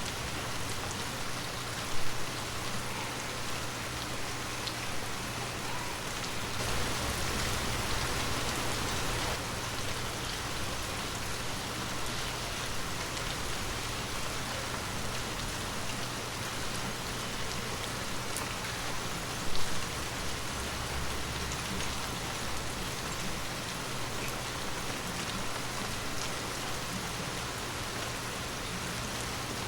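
Heavy rain falling steadily, an even hiss of drops on surfaces. Two brief louder hits stand out, about two seconds in and again about twenty seconds in.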